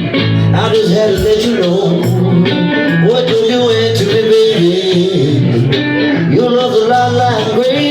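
Live blues music led by guitar. A sustained, bending melody line runs over a steady chugging low rhythm.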